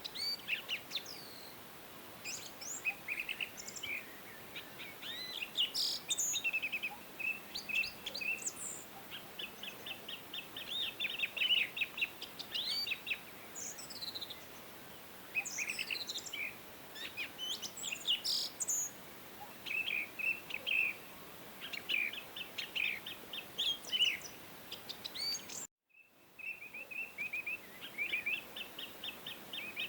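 Several songbirds chirping and singing in quick overlapping phrases and rapid trills over a faint background hiss. Near the end the sound cuts out completely for an instant, then the birdsong resumes.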